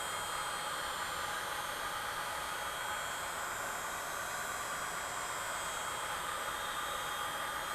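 Heat gun running steadily, blowing hot air onto a phone's back to soften the adhesive: an even rushing hiss with a faint, thin high whine.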